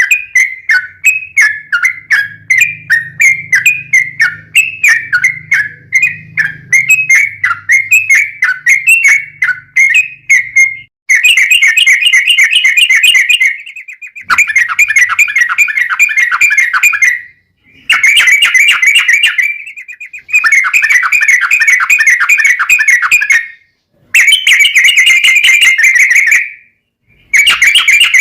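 Yellow-vented bulbul (trucukan) singing loudly: a run of short, quickly repeated whistled notes, then from about eleven seconds in a series of long rapid trills, each two to three seconds long with brief pauses between.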